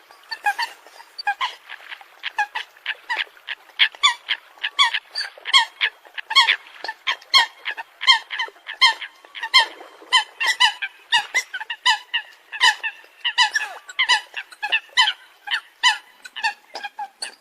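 Eurasian coots calling: short, sharp pitched calls repeated rapidly, about two to three a second, without pause.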